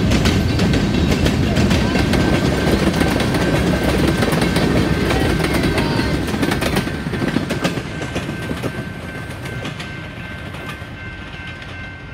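Freight train cars rolling past close by, a steady rumble with the wheels clicking over the rail joints. It grows fainter over the last five seconds as the end of the train goes by.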